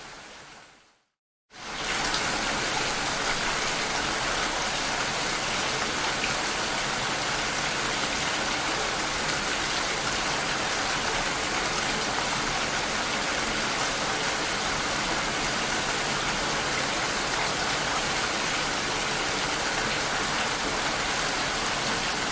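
Steady rain heard through a glass door. It fades out within the first second, cuts to silence for about half a second, then comes back in as an even, continuous rush.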